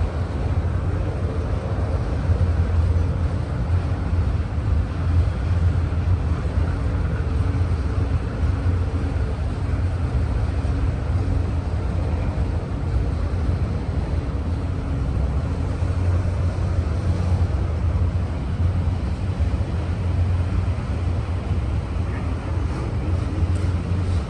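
Auto-rack freight train rumbling past steadily, with a faint steady drone over the low rumble of the wheels on the rail.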